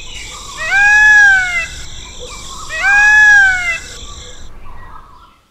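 An animal calling twice, each call about a second long, rising and then falling in pitch.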